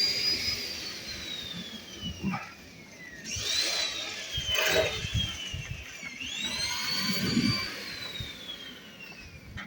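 High whine of a handheld electric power tool's motor, sagging slowly in pitch as it works under load, then revving up sharply and sagging again, twice a few seconds apart. Scraping noise comes in between the revs.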